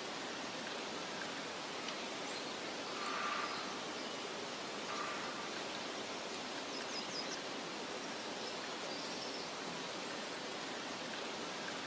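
Steady hiss of wind over a meadow, with a few short bird calls and quick high chirps scattered through it.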